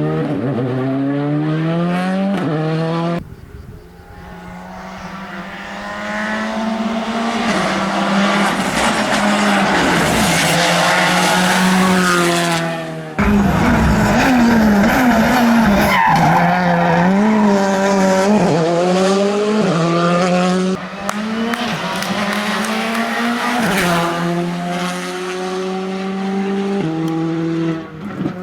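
Rally car engine revving hard past the spectators, its pitch climbing through each gear and dropping back at every shift, with tyres squealing at times. The sound breaks off abruptly several times as one pass gives way to another.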